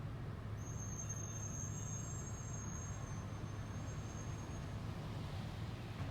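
Diesel engine of a 2022 Peterbilt 548 rear-loader garbage truck running steadily at low revs. A thin, high, steady whine sounds over it from about half a second in until near the end.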